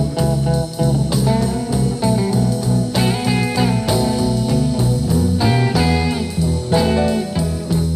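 Blues music: an instrumental break between sung verses, with plucked electric guitar lines over a bass line.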